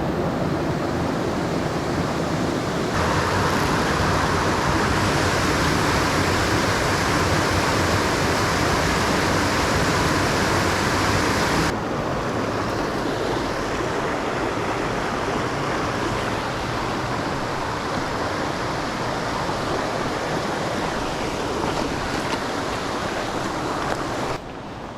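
Steady rush of a mountain torrent's water, loud and close. It changes abruptly, brighter about three seconds in and duller again near the middle, and drops in level just before the end.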